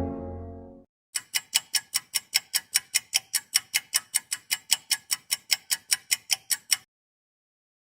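A ticking clock sound effect: even, sharp ticks at about four a second for roughly five and a half seconds, then stopping. Before it, the tail of a low horn-like effect fades out in the first second.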